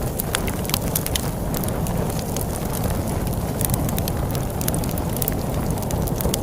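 Wood fire crackling with frequent sharp pops and snaps over a steady low rumble of storm wind.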